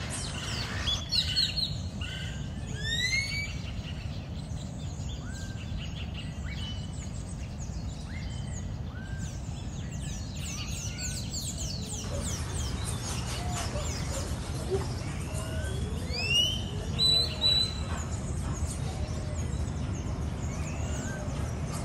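Several birds calling, with many short rising chirps and whistles over a steady low background rumble.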